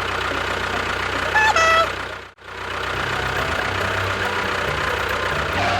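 Steady engine running sound. It drops out suddenly a little over two seconds in and then resumes, and a short high-pitched tone sounds about a second and a half in.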